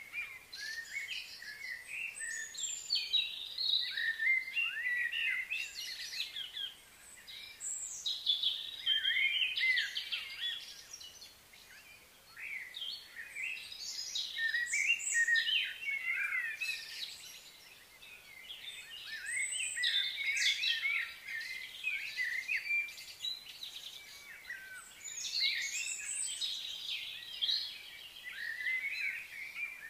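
Several birds chirping and singing at once, many short gliding high notes overlapping in waves, with brief lulls.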